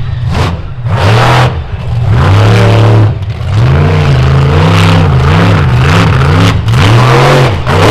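Monster truck engine revving hard, its pitch swinging up and down with the throttle over and over, held high for a moment about two seconds in and then blipped in quick repeated surges.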